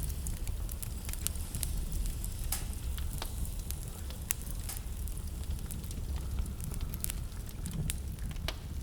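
Wood fire crackling in a fireplace, with irregular sharp pops and snaps over a steady low rumble of blizzard wind.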